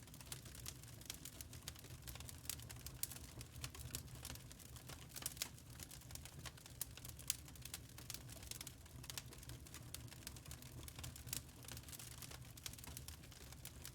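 Quiet wood fire crackling: a steady low rumble with many small irregular pops and snaps, one sharper pop about seven seconds in.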